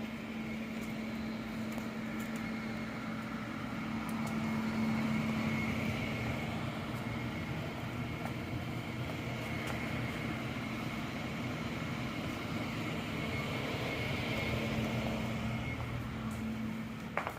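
Steady mechanical hum with a constant low tone, swelling gently twice.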